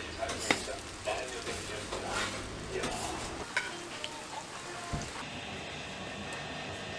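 Hotteok frying in shallow oil on a flat griddle: a steady sizzle. Sharp metal clinks from the hotteok press and utensils come every second or so during the first five seconds.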